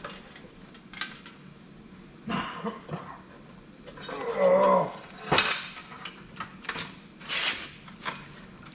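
Metal tools and parts clinking and knocking in a few separate strikes, with short scrapes and a brief wavering squeak near the middle, as steel hardware is handled during a winch repair.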